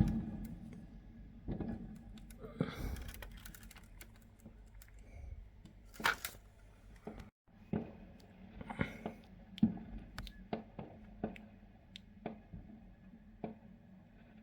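Fireworks going off: a loud bang right at the start with a long fading tail, followed by irregular sharp pops and cracks, about one or two a second, each with a short ringing tail.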